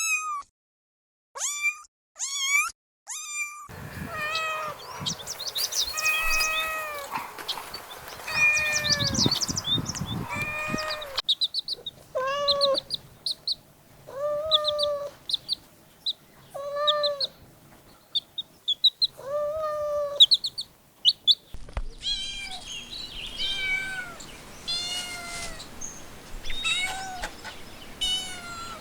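Kittens meowing over and over in short, high-pitched mews, in several spliced clips with different backgrounds.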